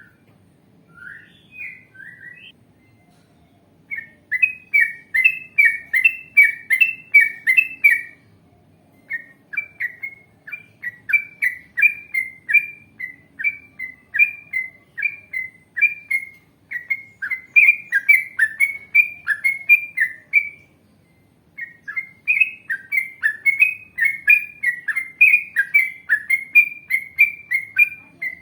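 Yellow-vented bulbul (trucukan) singing long runs of rapid, clear chirping notes, about four or five a second, in three extended rolling phrases separated by short pauses.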